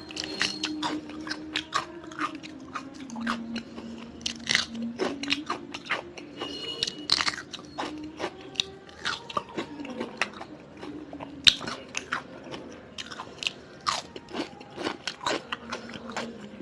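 A person chewing and crunching food close to the microphone, with many short, sharp crunchy bites and wet mouth clicks at an irregular pace.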